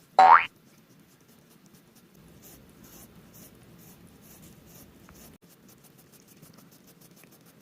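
Cat's rough tongue rasping over bare skin in repeated licks, a faint scratchy stroke about twice a second. Right at the start a brief, loud falling tone cuts in.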